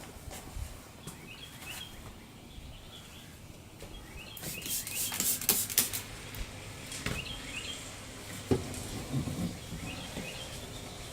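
A small bird chirping repeatedly in short high notes. About halfway through comes a loud stretch of hissing noise lasting a second or two, and a single sharp knock follows a few seconds later.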